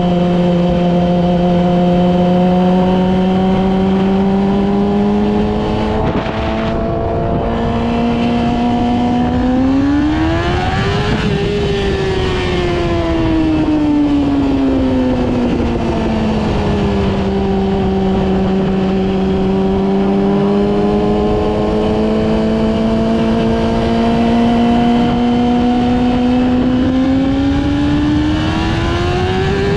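Yamaha R6 inline-four engine running steadily at moderate revs, then revving up about a third of the way in, easing back down, and climbing again near the end.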